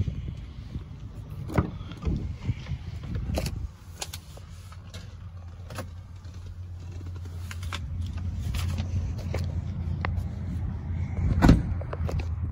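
A Ram 3500's 6.7 L Cummins diesel truck engine running with a low, steady rumble that grows louder from about halfway through. Several sharp clunks and clicks sound over it, the loudest near the end.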